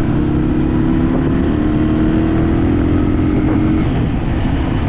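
A motor vehicle on the move: a steady engine hum over a dense low rumble of road noise. The engine's hum fades about four seconds in while the rumble carries on.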